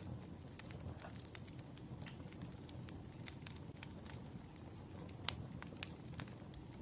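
Wood fire crackling: a steady low rumble of burning logs with irregular sharp pops and snaps, the loudest about five seconds in.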